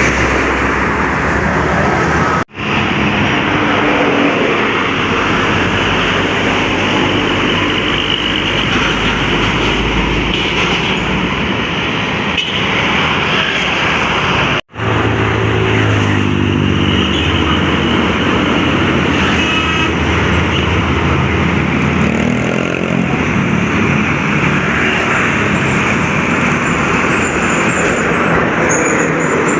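Heavy highway traffic: trucks passing close by, with engine notes rising over steady tyre and road noise. The sound cuts out twice for an instant where clips are joined.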